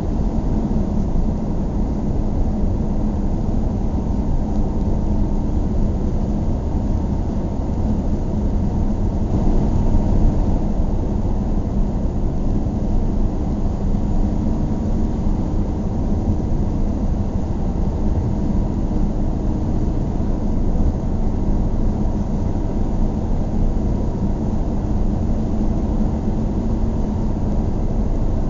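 Car driving at a steady pace: a continuous low hum of engine and tyre road noise that holds even throughout.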